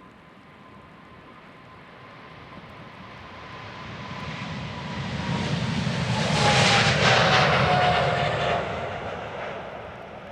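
Jet airliner passing close by. Its engine noise builds to a peak about two-thirds of the way through, then fades, with a thin engine whine that falls in pitch as it goes past.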